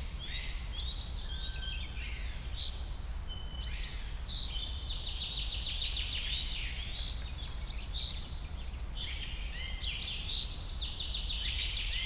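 Outdoor ambience of several small birds chirping and trilling in short repeated phrases, over a steady low rumble.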